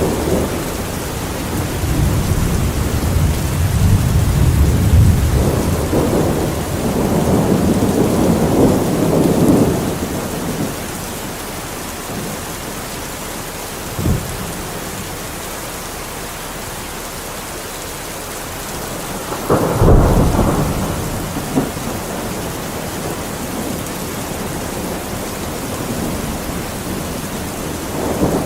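Steady rain with thunder: a long low rumble swelling over the first ten seconds, a short sharp crack about 14 seconds in, and a louder clap trailing into a rumble about 20 seconds in.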